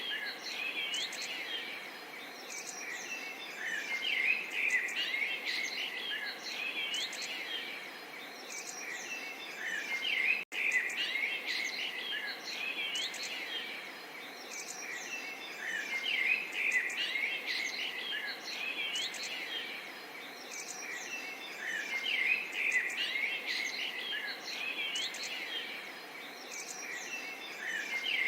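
A chorus of small songbirds chirping and singing continuously, many short calls overlapping, over a soft steady murmur of running water. The sound drops out for an instant about ten seconds in.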